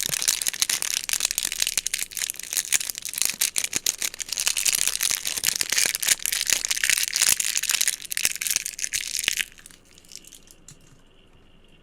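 Close-up crinkling and crushing of a crinkly material squeezed in the hands, dense and continuous, stopping abruptly about nine and a half seconds in; a few light taps follow.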